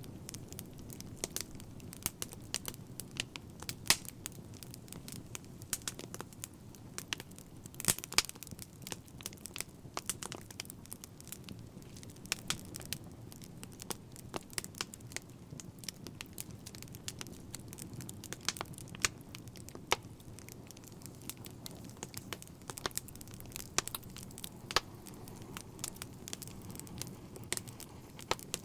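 Wood fire crackling: irregular sharp pops and snaps, a few louder ones, over a steady low rumble of the burning fire.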